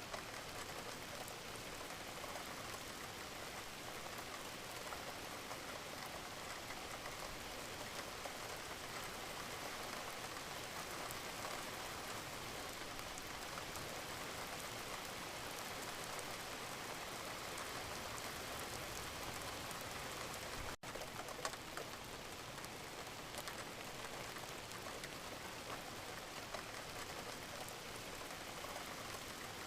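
Wood fire burning in a fireplace: a steady hiss scattered with many small crackles and pops. It drops out for an instant about two-thirds of the way through.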